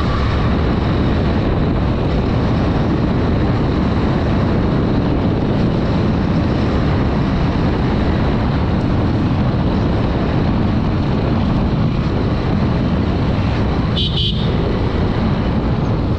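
Steady wind and engine noise of a Honda Dream 110 motorcycle on the move, with a short horn beep near the end.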